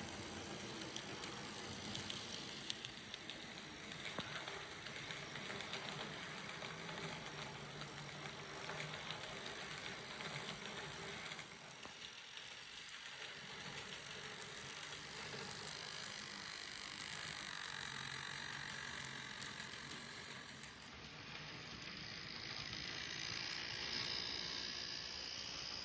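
Microace model of a JR Shikoku 2000 series diesel train running on its track: a steady whir of the small motor and running gear with light, rapid clicking of the wheels on the rails.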